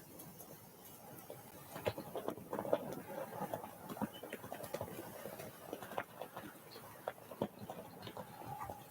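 Small birds at a feeder, pecking and hopping: irregular light taps and clicks that grow busier about two seconds in.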